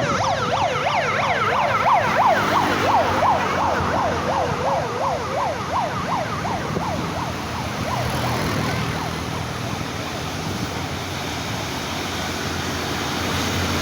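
An electronic siren warbling rapidly, about four sweeps a second, over the steady low running of a heavy truck engine on a climb. The siren fades out about halfway through while the engine carries on.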